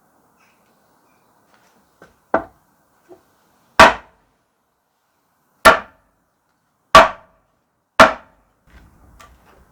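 Hammer blows on metal: a lighter knock, then four hard, evenly struck blows a second or two apart, each ringing briefly.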